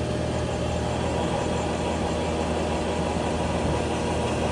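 A shop machine tool running steadily: an even mechanical hum with a whirring noise over it.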